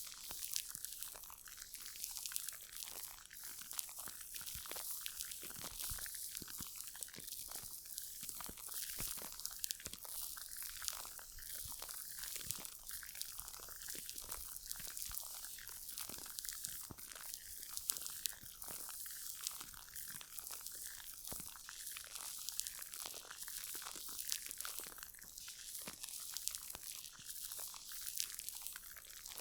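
Close-miked ASMR rubbing on the microphone: a dense, irregular crackling and crunching, several small crackles a second, made by handling skincare materials right at the mic.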